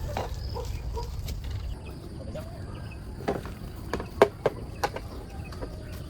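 Chickens clucking softly, then a few sharp knocks or taps between about three and five seconds in, the loudest about four seconds in.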